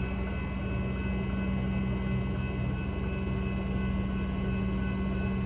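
Comeng electric suburban train running, a steady electrical hum with a low drone and several fixed higher whine tones over a rumble.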